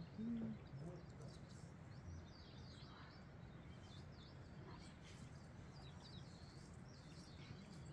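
Faint chirping of small birds, short high calls repeated on and off, over a low steady background hum.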